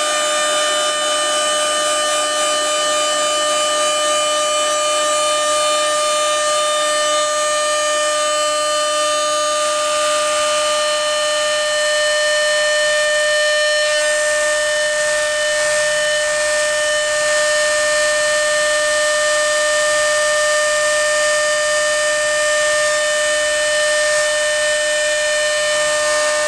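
CNC router spindle running with a steady high-pitched whine as it cuts an acrylic sheet.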